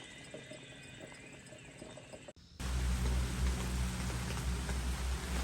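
Steady rain falling, with a low steady hum under it, cutting in abruptly about two and a half seconds in after a quieter, faint stretch.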